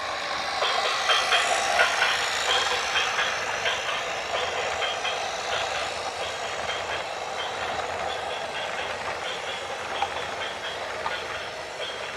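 A train running past: a steady rolling rush with quick, irregular clicks and high metallic ticks from the wheels on the rails.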